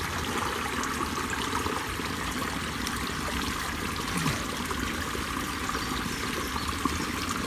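Pond overflow water running and trickling steadily below the spillway after a flood.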